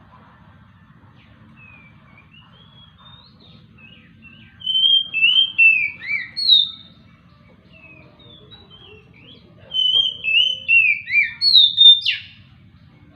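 Oriental magpie-robin (kacer) singing: two loud bouts of short, clear whistled notes, many slurring downward, the second bout ending on a sharp note near the end, with faint scattered chirps between the bouts.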